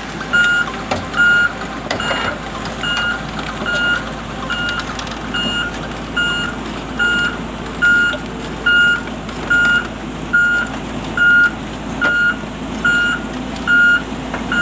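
Crawler crane's travel alarm beeping steadily, one high beep about every 0.8 seconds, over the low, steady running of the crane's engine as it travels on its tracks.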